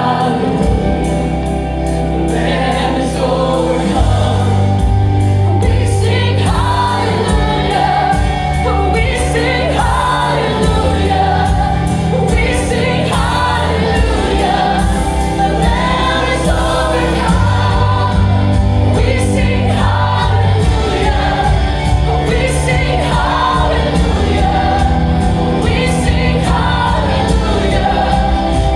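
Gospel worship music: a band with bass and drums accompanying a congregation and worship singers singing a praise song.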